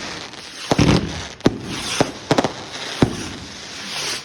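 Fireworks going off: a run of sharp bangs, about one every second, over continuous crackling and hissing.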